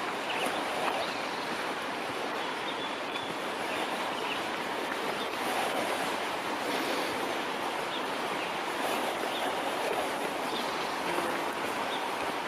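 Steady rushing of flowing water, like a mountain stream, holding an even level throughout.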